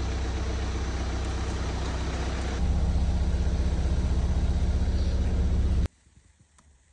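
BMW X1 diesel engine running steadily after a timing chain replacement, getting a little louder about two and a half seconds in, then cutting off suddenly near the end.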